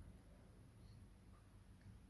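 Near silence: room tone, with a few faint, short chirps from pet birds.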